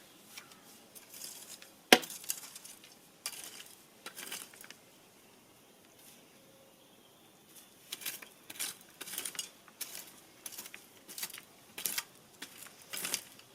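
Hard objects being handled, clinking and clattering, with one loud sharp knock about two seconds in, a short lull in the middle, then a busy run of clinks and knocks.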